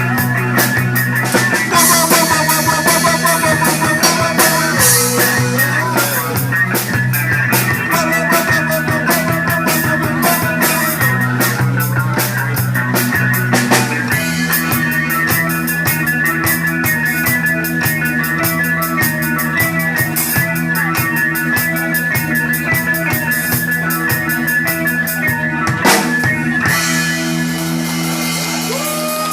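Live pop-rock band playing an instrumental passage: a drum kit with steady cymbal strokes under bass notes and a guitar melody.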